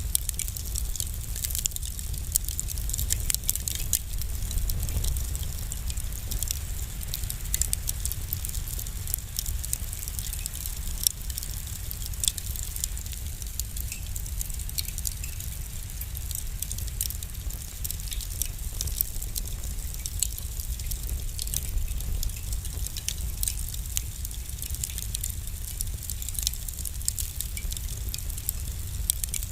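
Wood fire crackling in a fireplace: frequent small, sharp pops and snaps over a steady low rumble of the flames.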